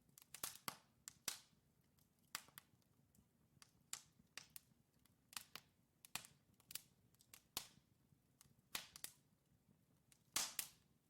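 Wood fire crackling in a fireplace: burning logs giving off irregular sharp pops and snaps, a few every second, with the loudest burst of pops near the end.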